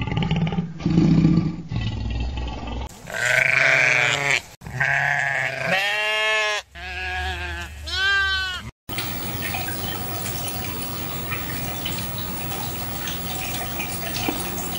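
Low growls from American alligators, then sheep bleating several times with wavering pitch, then about nine seconds in a steady bubbling hiss of aerated water in a lobster tank.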